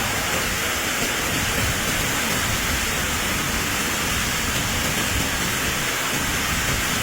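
Heavy rain pouring down in a steady, even hiss during a severe storm downpour.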